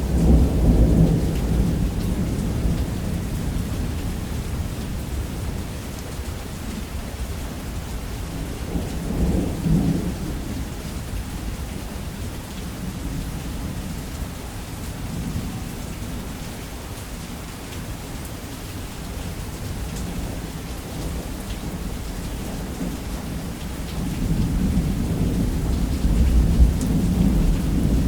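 Steady heavy rain with rolling thunder. A rumble fades over the first couple of seconds, another swells about nine seconds in, and a louder rumble builds from about 24 seconds to the end.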